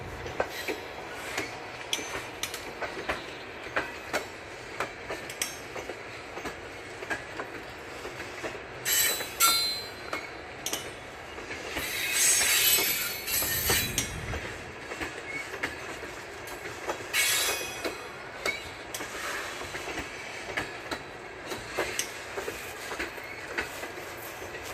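Freight train of refrigerated boxcars rolling slowly past, wheels clicking over the rail joints, with high wheel squeal rising three times, about nine, twelve and seventeen seconds in.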